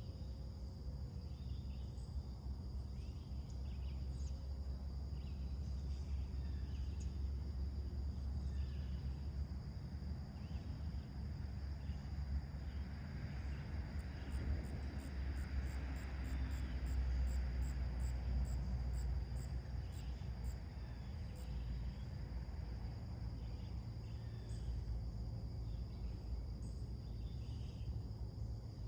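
Late-summer insect chorus: crickets trilling steadily at a high pitch, with short chirps repeating about once a second, over a low steady rumble. Around the middle a broad swell of noise rises and fades, along with a run of fast, very high ticks.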